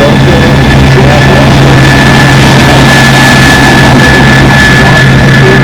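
Jet engine running steadily and loudly, with a constant high whine over a deep hum and a rush of noise.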